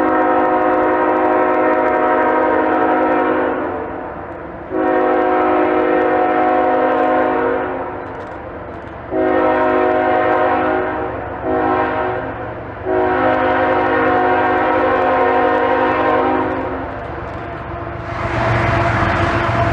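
Freight locomotive air horn blowing a grade-crossing pattern: two long blasts, two shorter ones close together, then a final long blast. Near the end the locomotives' diesel engines and the train's rumble grow loud as it comes close.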